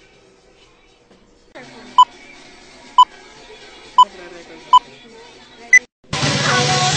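Five short electronic beeps over faint background noise, the first four about a second apart and the fifth higher in pitch. A pop song cuts back in loudly just after the last beep.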